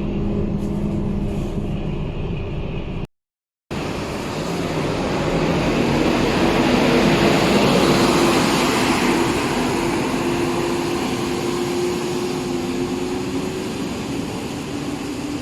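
Scania K230UB city bus's diesel engine and loud radiator cooling fan running, a steady drone with a whooshing rush. A dead gap about three seconds in, then the rush swells and slowly fades.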